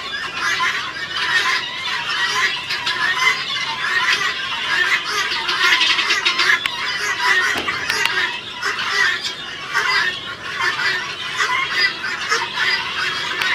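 A flock of helmeted guineafowl (titi birds) calling nonstop, many harsh, rapid, overlapping squawks.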